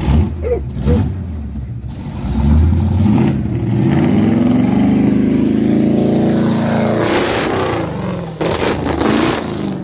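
Square-body Chevy step-side pickup's engine revving, louder from about two seconds in, its pitch rising and falling under changing throttle.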